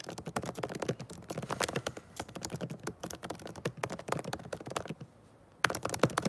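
Rapid, irregular clicking and tapping, breaking off briefly about five seconds in before resuming.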